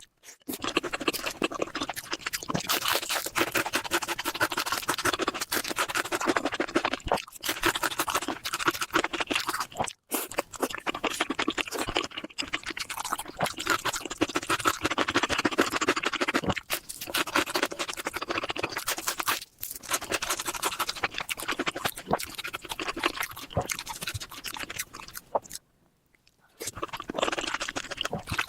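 Close-miked eating sounds: a person chewing and working spicy curry with rice, a dense run of wet crackles and smacks, broken off abruptly several times.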